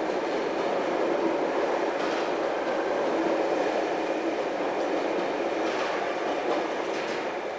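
Sydney electric commuter train running, a steady noise that eases slightly near the end.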